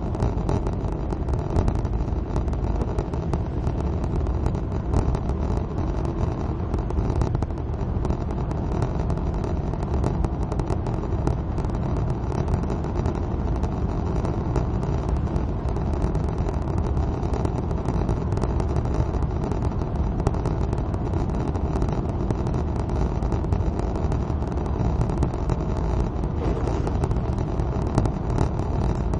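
Suzuki Swift cruising on a wet motorway in the rain: steady engine and tyre noise on the wet road surface, with many faint ticks throughout.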